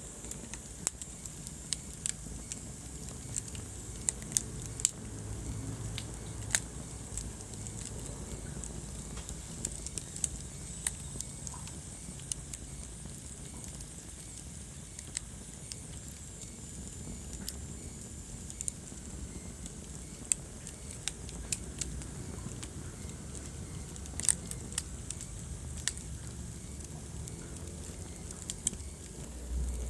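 Wood fire burning in a fireplace: a low rumble of flames under irregular sharp crackles and pops, a few every second.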